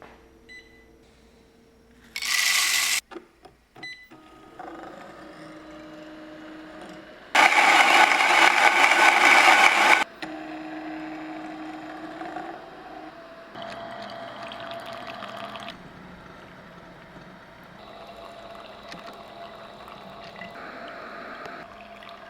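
xBloom pour-over coffee machine working through a brew. A short loud burst comes about two seconds in, and a loud grinding run of about three seconds falls in the middle, typical of its built-in grinder. After that comes a steadier, quieter hum of the machine, with water running and pouring.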